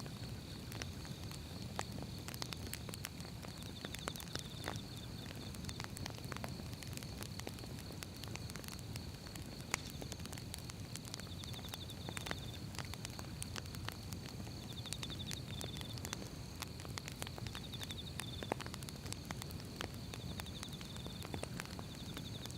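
Wood fire crackling: irregular snaps and pops of burning firewood over a low, steady rumble of the flames. A faint steady high tone and short trills repeating every few seconds run behind it.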